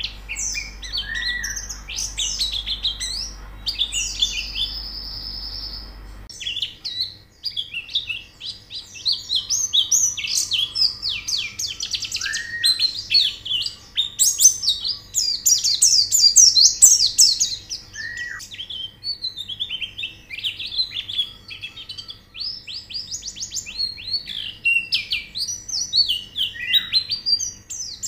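White-eyes (pleci) singing in a dense run of rapid, high twittering chirps and trills, with an occasional lower, downward-slurred whistle.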